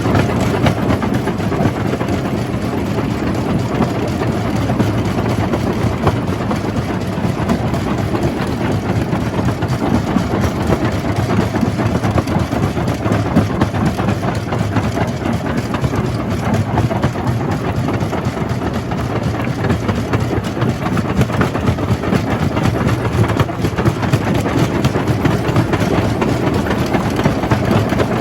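Jaw crusher running and crushing rock: a loud, steady mechanical rumble with a dense, constant rattle.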